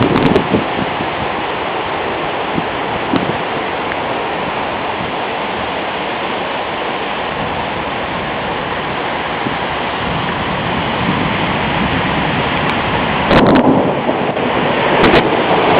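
Heavy storm rain pouring down in a steady loud wash, building a little in the second half. A few sharp knocks, near the start and twice more late on, are drops or hail striking close to the microphone.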